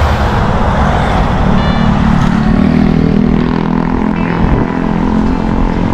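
Wind rushing over the microphone while a motor vehicle's engine runs close by; the engine's hum grows stronger about two seconds in.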